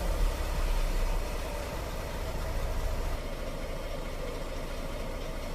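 King Long vehicle's engine idling just after start-up, the revs settling and the sound easing down about three seconds in.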